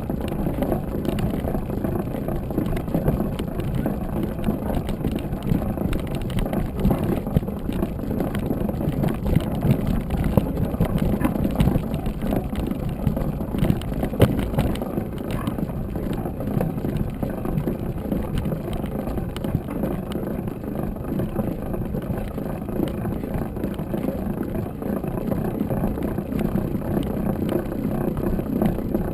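Mountain bike riding over a rough trail: a steady rush of wind on the microphone with a continuous scatter of small knocks and rattles from the bike.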